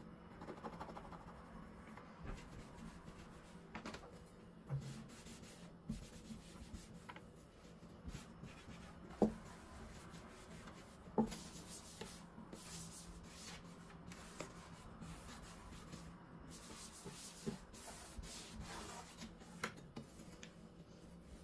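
Faint rustling of food packets and containers being handled and moved about in a kitchen drawer, with scattered light knocks; the two loudest come about 9 and 11 seconds in.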